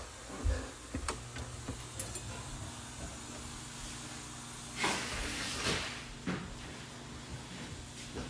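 Sub-Zero refrigerator switched back on: a low steady hum from the machinery compartment, with a few clicks and knocks of handling and a brief rushing hiss about five seconds in.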